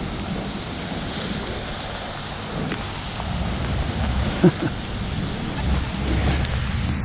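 Heavy rain pouring steadily, with a brief sharp sound about four and a half seconds in.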